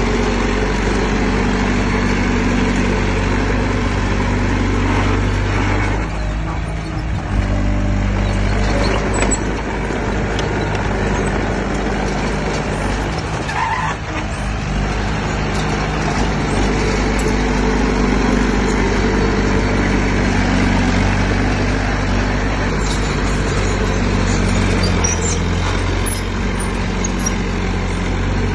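Diesel engine of heavy earthmoving machinery running loudly and continuously, its note shifting in steps as the load and throttle change, with brief dips about six and fourteen seconds in.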